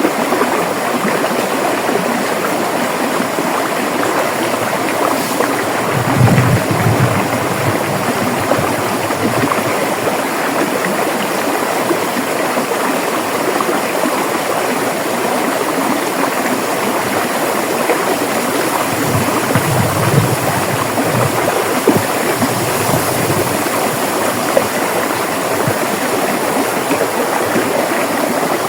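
River water flowing over rocks in a steady rush, with low surges of water about six seconds in and again around twenty seconds.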